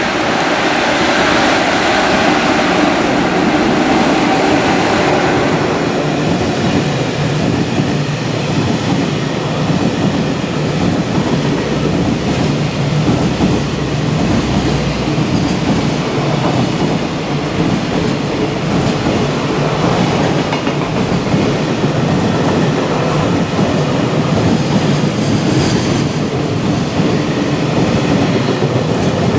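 Long freight train of loaded container wagons passing at speed: a steady rumble with the wheels clattering over the rail joints. It is brighter and louder for the first few seconds.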